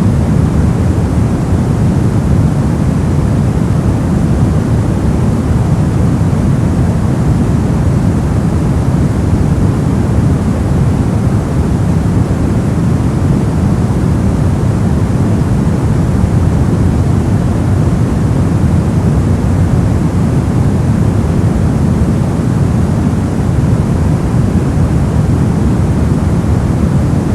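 Steady, unchanging noise from a sleep-sound track, heaviest in the low range, so it sounds like a deep rushing hiss rather than a bright one.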